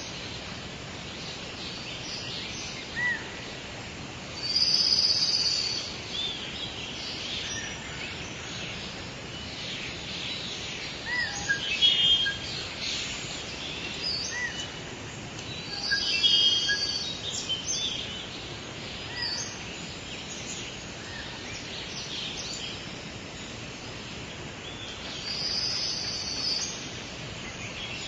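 Wild birds singing and chirping over a steady background hiss, with a louder song phrase coming back every several seconds, four times in all.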